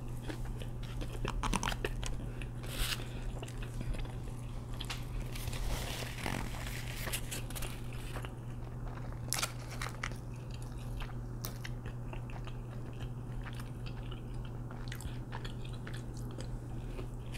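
Close-miked chewing and crunching of a fried chicken sandwich, with many short sharp mouth clicks and crunches; a waffle fry is bitten near the end. A steady low hum runs underneath.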